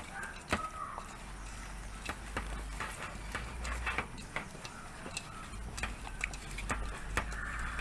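Irregular light clicks and taps from handling a spice packet or container while adding chicken masala powder to a marinade, over a steady low rumble.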